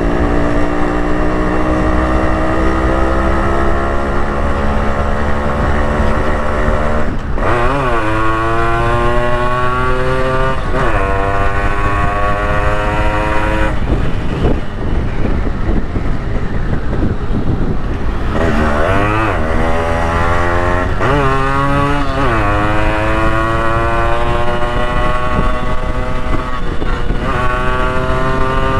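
Yamaha RX100's single-cylinder two-stroke engine under way, its pitch climbing steadily, then dropping sharply and climbing again several times, as when shifting up through the gears. A steady low wind rumble runs underneath.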